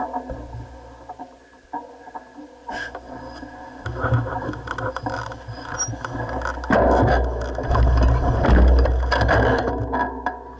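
Mountain bike descending a rough dirt trail: the tyres run over the ground and the bike rattles and clatters over bumps, with wind buffeting the microphone. It gets louder about four seconds in and again past halfway.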